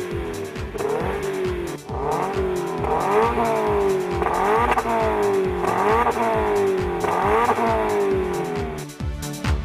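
Toyota GT86's 2.0-litre flat-four engine revved again and again through a Ragazzon stainless steel exhaust. Each rev rises quickly and falls back slowly, about every second and a half. Electronic music with a steady beat plays underneath.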